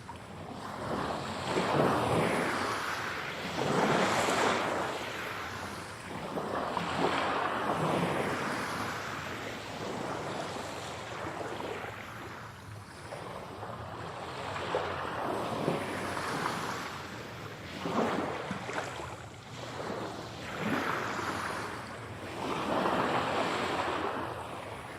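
Sea waves washing onto a shore, surging and falling back every few seconds.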